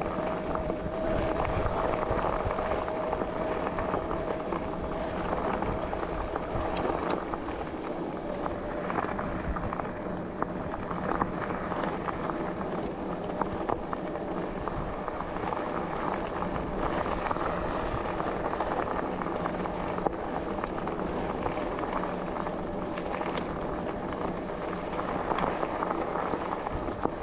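Bicycle riding along a forest track: steady tyre and rolling noise with rattles and clicks, and a steady whine that weakens about seven seconds in.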